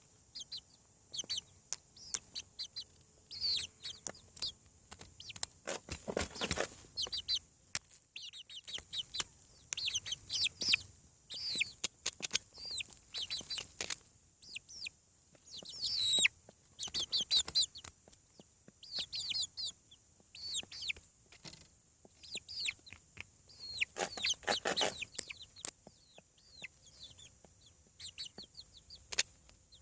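A group of young chickens peeping and chirping, with many short high calls overlapping and some clucking. Louder, rougher bursts come about 6 seconds in, around 16 seconds and around 25 seconds.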